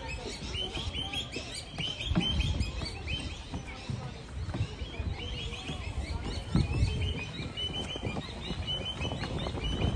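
Small birds chirping: many short, quick calls, with a low rumble underneath.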